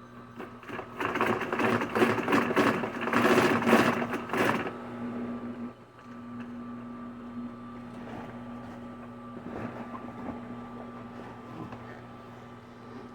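Sewing machine stitching a bounce-house repair in a fast, loud run of about three and a half seconds, then its motor humming steadily with only a few faint clicks.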